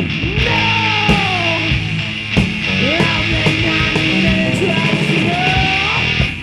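Rock band playing in a garage rehearsal space, with a lead line that slides up and down in pitch over steady drums and bass.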